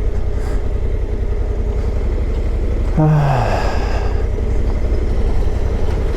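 Honda Africa Twin CRF1100 motorcycle running at riding speed, a steady low rumble of engine and wind on the microphone. About halfway through, a short falling tone cuts in for under a second.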